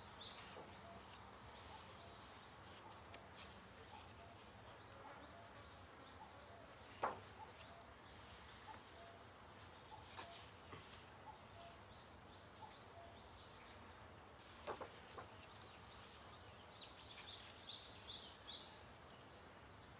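Faint rubbing and rustling of coloring-book pages being handled and turned, with a couple of soft taps. Near the end a bird gives a quick run of chirps.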